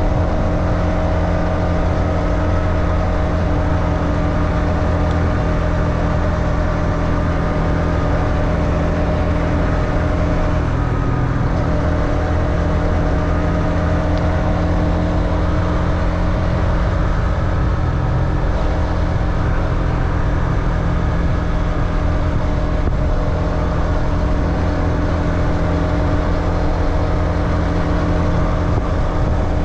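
Motorbike engine running at a steady speed while riding, its drone holding even with only slight shifts in pitch.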